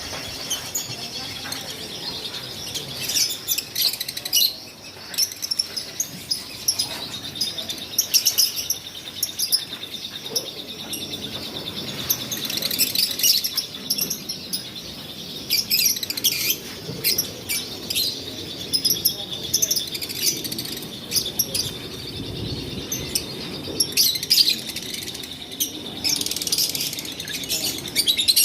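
A flock of caged lovebirds chirping and squawking in many short, overlapping calls. A steady high-pitched whine runs underneath.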